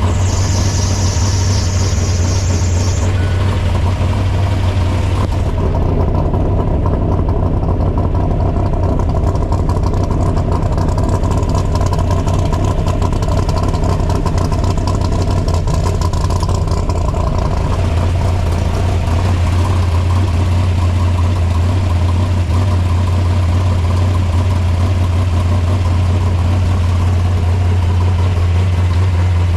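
Vehicle engine running continuously at a steady, unchanging low pitch, with road and wind noise over it.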